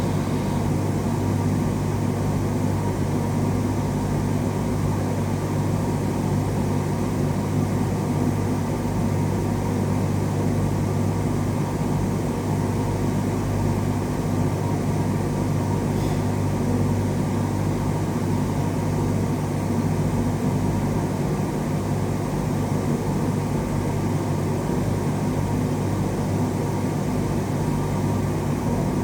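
A steady, low mechanical hum with an even drone that does not change.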